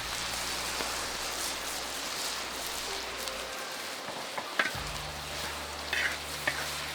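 Food sizzling in a pan, a steady hiss, with a few sharp clicks of a utensil in the latter half.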